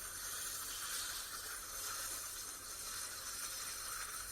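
Shower running: a steady hiss of water spraying from the shower head.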